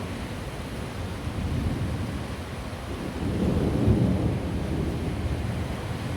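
Thunder rumbling low over steady rain, the rumble swelling a little past halfway and then easing off.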